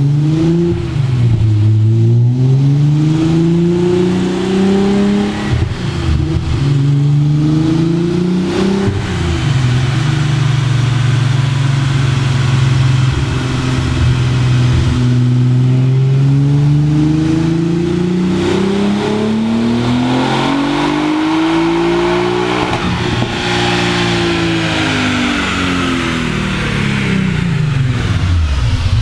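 Nissan 300ZX's twin-turbo VG30DETT V6 running on a chassis dyno. It revs up and down a few times, holds a steady speed, then climbs in one long rising pull to high revs about two-thirds of the way in, and falls off as it coasts down.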